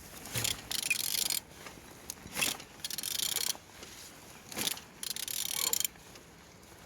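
A used car engine being turned over by hand: mechanical clicking and rasping in three strokes about two seconds apart, the engine rotating freely.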